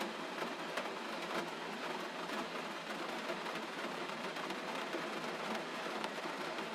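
Steady gentle rain: an even hiss of rainfall sprinkled with many small drop ticks.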